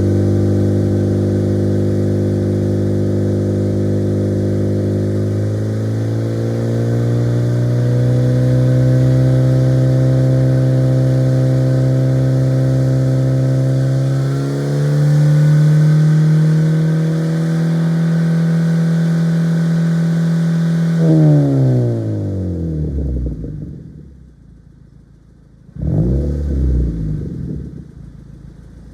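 Mazda MX-5 Miata NC's stock 2.0-litre four-cylinder exhaust, through a Tomei Expreme Ti muffler, running at held revs that step up twice. The revs then drop back, and one short blip near the end quickly falls away.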